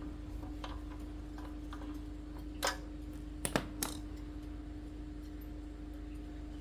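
Sharp metallic clicks and clinks of tools and engine parts being handled during repair work: a few faint ones, then a louder clink and three quick sharp ones around the middle, over a steady hum.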